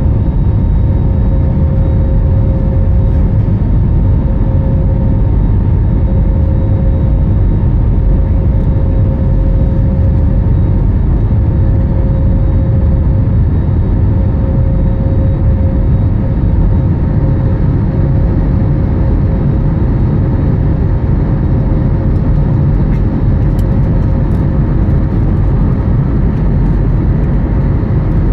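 Airbus A321neo's Pratt & Whitney geared turbofan engines heard from inside the cabin in flight after takeoff: a steady roar of engine and airflow noise with a steady hum through it.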